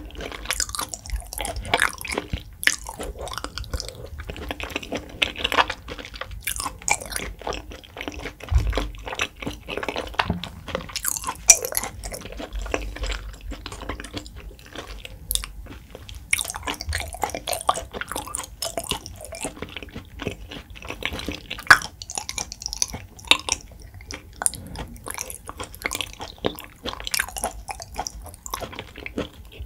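Close-miked mouth sounds of a person chewing cubes of raw beef (yukhoe): a continuous run of short, irregular wet clicks and lip smacks.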